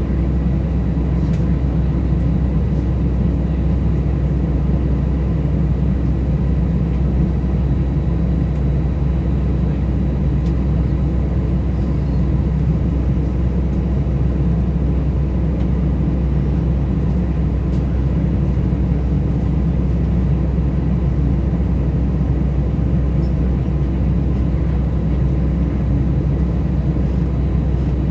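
Airbus A320 cabin noise heard from inside the passenger cabin: a steady low rumble of the engines and airflow, with faint steady whine tones above it.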